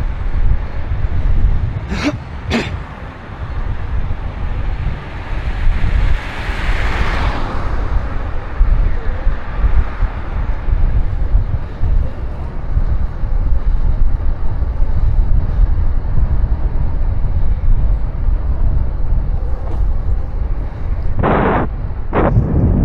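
Wind buffeting the microphone of a camera on a moving bicycle, a steady low rumble. Two sharp clicks come about two seconds in, a hiss swells and fades a few seconds later, and two short loud noises come near the end.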